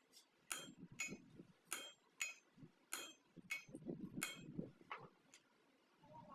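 Hammer striking steel in a steady series of sharp blows, about two a second, each with a short metallic ring; the blows grow weaker and stop about five seconds in.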